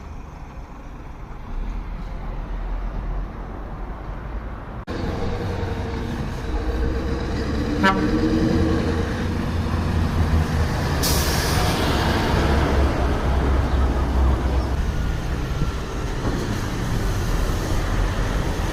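Scania trucks driving past with a steady low engine rumble. A short horn toot sounds about eight seconds in, and a sharp hiss of air follows about eleven seconds in.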